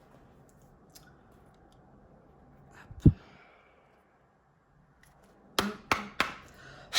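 A single short low thump about three seconds in, then, near the end, a quick run of crisp clicks from tarot cards being handled.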